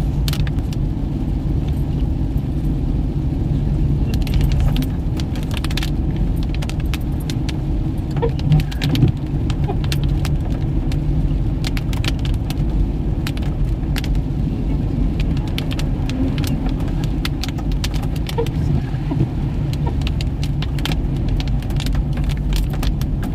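Car cabin sound while driving: a steady low rumble of the moving car, with many scattered sharp clicks and rattles over it.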